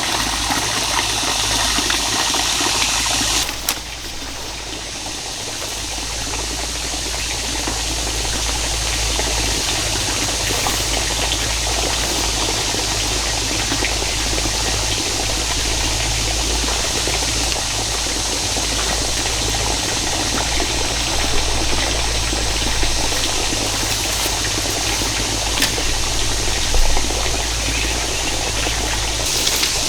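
Water running steadily, a continuous rushing and trickling flow. The level drops suddenly near four seconds in and builds back over the next few seconds.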